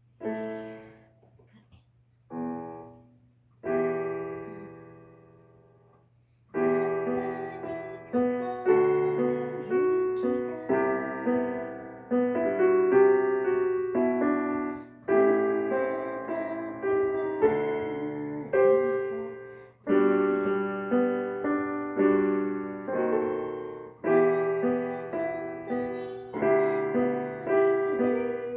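Slow piano music: three separate chords struck and left to ring out, then continuous chordal playing from about six and a half seconds in.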